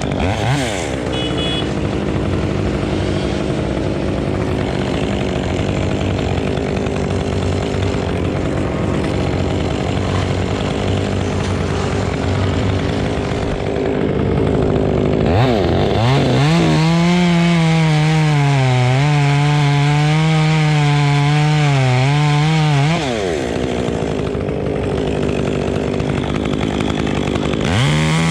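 Two-stroke chainsaw idling, then opened up to full throttle about halfway through and held there for several seconds, its pitch wavering as it cuts through wood. It drops back to idle and revs up again near the end.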